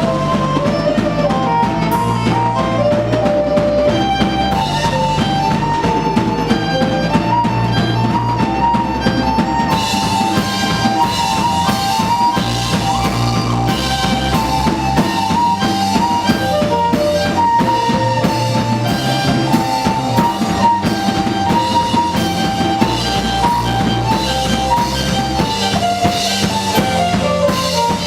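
Live rock band playing an instrumental passage: a drum kit with kick drum keeps a steady beat under bass notes, while a violin carries the stepping melody on top.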